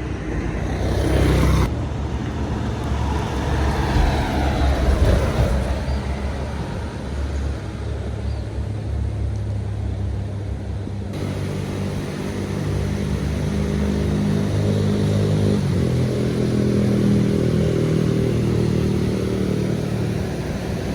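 Heavy diesel vehicles passing on the road. In the first few seconds one goes by with a falling whine. About halfway in, a deep engine note under load takes over and holds steady.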